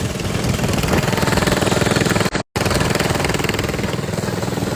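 Mini bike's small engine running steadily with a rapid, even putter. The sound cuts out completely for a split second about halfway through.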